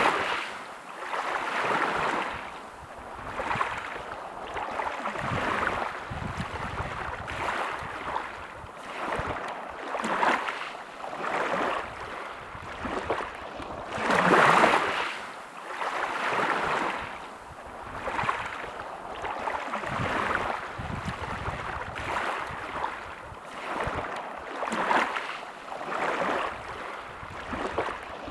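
Sea waves washing onto a beach, a rush of surf swelling and fading every second or two, with bigger waves at the start and about halfway through.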